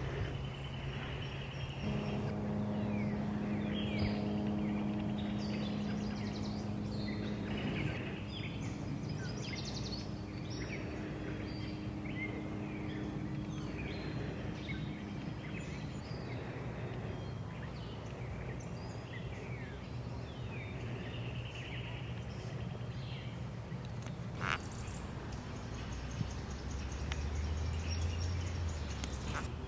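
Wild birds chirping and calling, many short rising and falling notes, over a steady low hum that lasts about the first half and comes back near the end.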